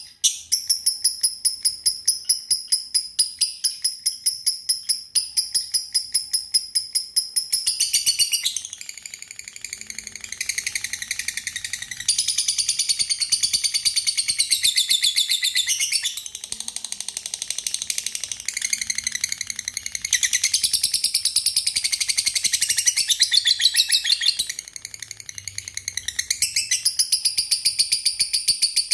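Lovebirds chirping in a fast, high-pitched chatter of repeated chirps, several a second, easing off briefly twice.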